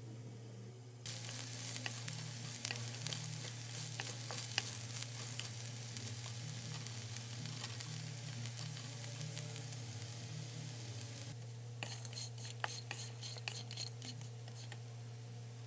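Diced potatoes sizzling in hot oil in a nonstick pan while a wooden spatula stirs and scrapes them, with many small clicks in the hiss; the sizzle starts suddenly about a second in. Near the end the sizzle drops and the spatula clicks come more sparsely, over a steady low hum.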